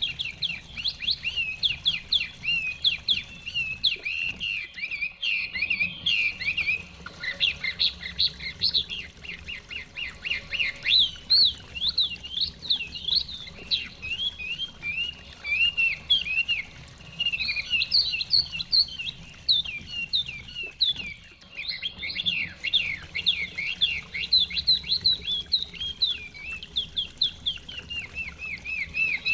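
Chinese hwamei (họa mi) singing: a fast, nearly continuous run of high, sweeping whistled notes with a couple of brief lulls.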